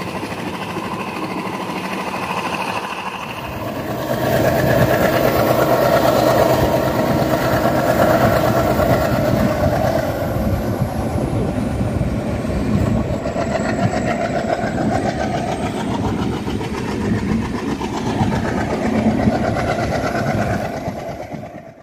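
Indian passenger express train running at speed, heard from an open coach doorway: a steady rumble of wheels on the rails mixed with rushing wind. It gets louder about four seconds in.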